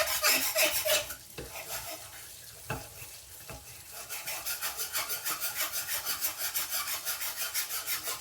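Steel knife blade scraped back and forth on a coarse sharpening stone in quick, even strokes, several a second, grinding the edge down to take out a recurve. The strokes are louder in the first second, softer for a while, then steady again.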